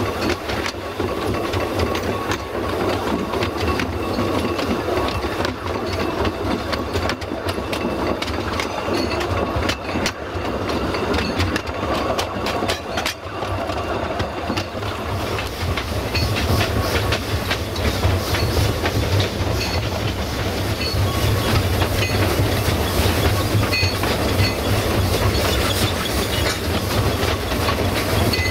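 Narrow-gauge train hauled by a steam locomotive running along the track: a steady rumble with wheels clicking over the rail joints, growing somewhat louder about halfway through.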